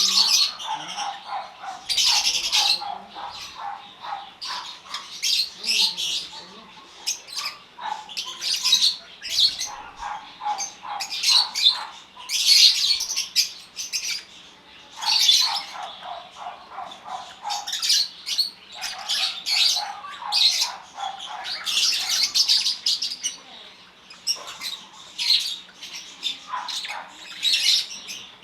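A flock of African lovebirds chattering with shrill squawks, many birds calling over one another in bursts every second or two.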